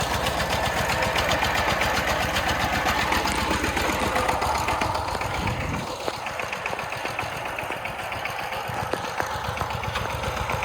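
A small Chinese-made tractor engine, rated 13.46 horsepower, running with a fast, steady chug of firing strokes. About six seconds in, the deep low part of the sound drops away and it gets a little quieter.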